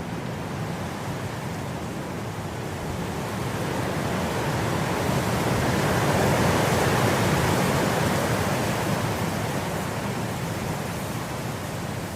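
Wind blowing through grass, a steady rushing that swells into a gust about halfway through and then eases back.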